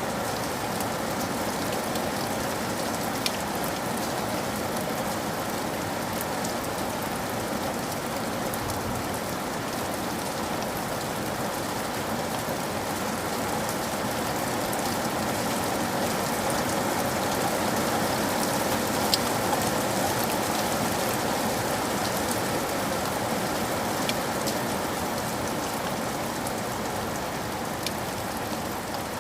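Steady rain falling on a surface, a constant hiss with a few sharp drop ticks scattered through it.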